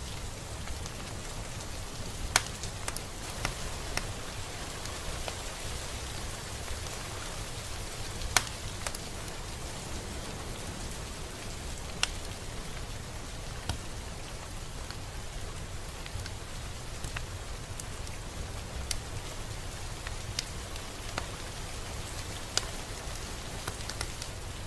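Steady rain falling, a constant hiss with scattered single drops ticking close by, a handful of them louder hits.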